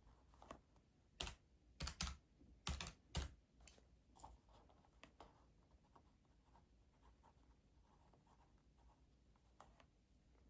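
Keys being tapped: a quick run of sharp key presses from about one to three and a half seconds in, then a few fainter scattered clicks.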